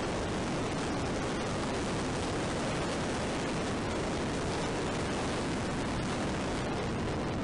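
Steady rushing wind noise buffeting the microphone of a helmet-mounted action camera on a moving motorcycle, with no clear engine note standing out.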